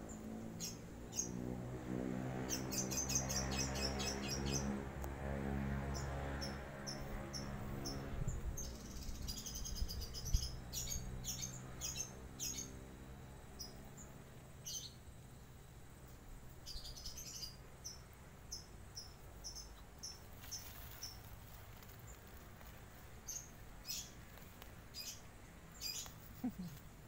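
Small birds chirping in short, high, repeated calls. A low droning hum with a steady pitch sounds under them through the first half and fades out about halfway.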